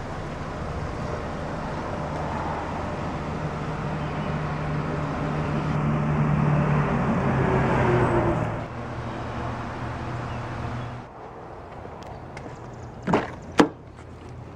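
1992 Nissan Stanza's four-cylinder engine idling steadily under a rushing noise that swells, then falls away about 11 seconds in. Near the end come two short knocks, the second sharper, half a second apart.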